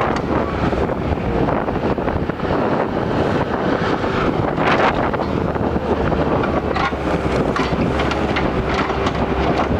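Skid steer engine running steadily under load, with a wavering whine coming in during the last few seconds. Wind buffets the microphone throughout.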